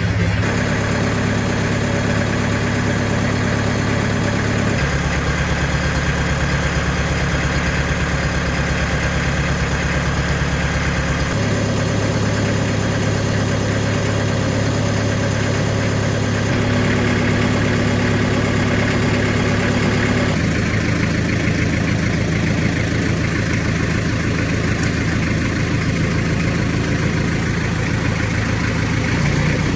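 McCormick International B-375 tractor's diesel engine idling steadily after a cold start. Its tone shifts abruptly a few times.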